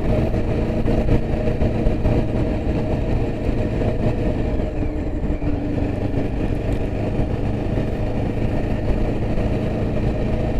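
Yezdi Adventure motorcycle's single-cylinder engine running at a steady speed while riding, with wind and road noise.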